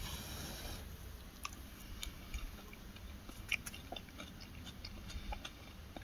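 A person chewing food, faint, with scattered small clicks.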